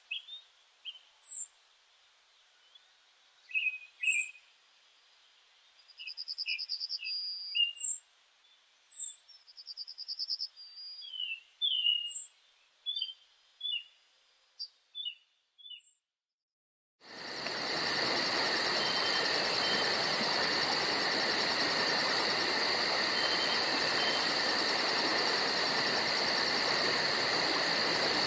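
Woodland birds calling in short chirps and whistles, with two quick trills, over a quiet background. After a brief gap, a different recording comes in: a dense insect chorus with steady high buzzing and fast pulsing, over a continuous hiss.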